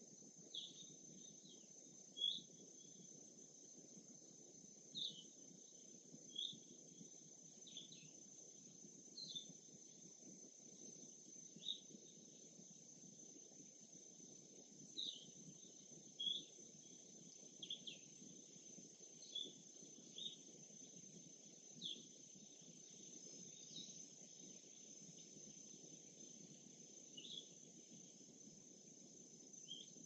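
Faint birdsong: short, high chirps every second or two, over a steady high insect-like drone and a soft low hiss.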